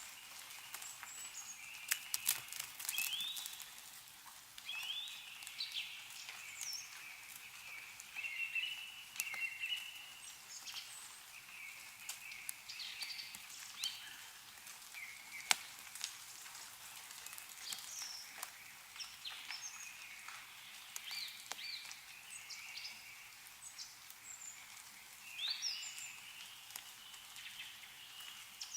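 Small birds chirping and calling on and off throughout, short rising and falling notes over faint outdoor hiss, with scattered sharp ticks of meltwater dripping from snow-covered trees.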